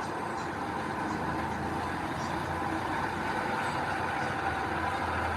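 Heavy diesel earthmoving machinery running steadily with a low engine hum.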